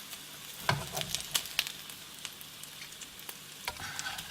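Chicken thighs sizzling in a frying pan with teriyaki sauce: a steady hiss with scattered pops, and a few knocks about a second in and again near the end, as the pan is worked.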